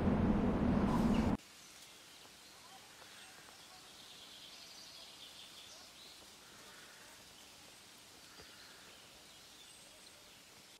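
A loud rumbling noise cuts off abruptly about a second and a half in. After it comes a faint open-air background with soft, scattered bird chirps.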